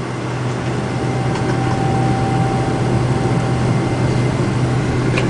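Boeing 777-200 jet engines and airflow heard inside the passenger cabin: a steady low hum under a rush of noise, with a thin steady whine. It grows slightly louder through the stretch.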